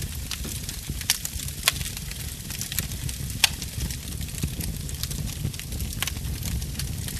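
Wood fire burning and crackling: a steady low rumble with irregular small ticks and a handful of sharp, loud pops from the burning logs.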